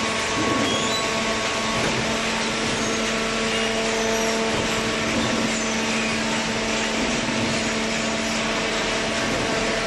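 Automatic horizontal waste-carton baler running steadily: its hydraulic pump and motor give a continuous hum with a steady whirring noise.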